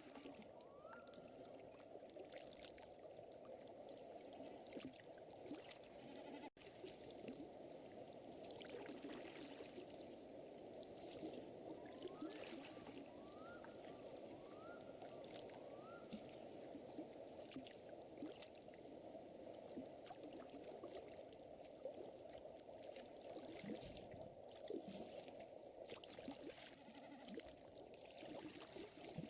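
Faint layered nature ambience: a steady, water-like hum of lake water, with scattered light crackles from a fire. A few short rising chirps come near the start, and a run of about five more comes in the middle.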